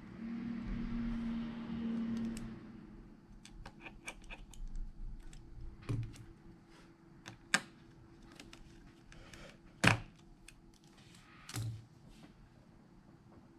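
A steady hum for the first two seconds or so, then a run of light clicks and taps of small tools and parts on a phone under repair, with two sharper knocks in the second half.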